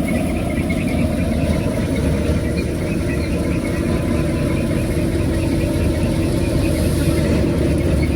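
A motor running steadily with a low, even hum, the sound of engine-driven machinery at work.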